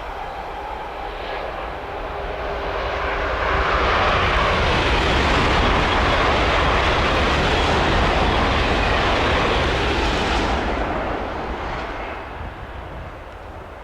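A train passing at speed: a rushing noise that builds over a couple of seconds, holds for about six, then fades away.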